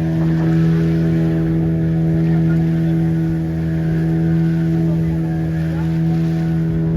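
A motor running at a steady speed: an even hum made of several constant tones that neither rises nor falls.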